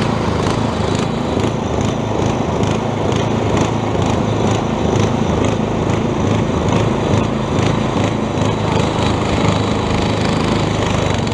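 Quadractor's 8 hp small engine running steadily under load.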